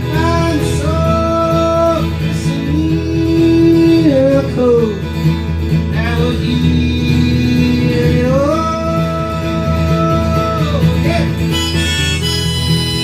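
Live acoustic folk music: acoustic guitar under long held melody notes that bend down in pitch at their ends, likely harmonica. Brighter, higher harmonica notes come in near the end.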